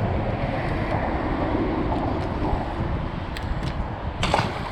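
Wind rushing over the microphone and a steady low rumble on a small fishing boat, with one brief sharp noise near the end.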